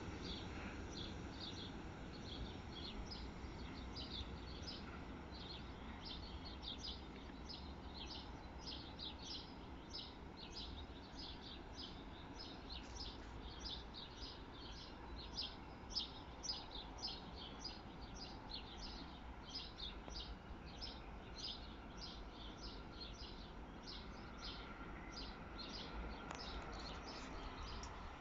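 Faint bird chirping: short, high calls repeated about twice a second over low outdoor background noise.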